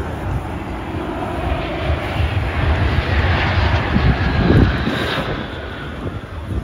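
Aircraft flying over at an air show, its engine noise building to a peak about four and a half seconds in and then fading.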